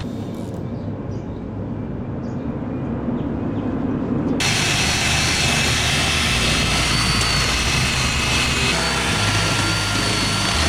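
A low rumbling noise, then about four seconds in a motor-driven machine such as a power tool cuts in abruptly and runs with a steady whine.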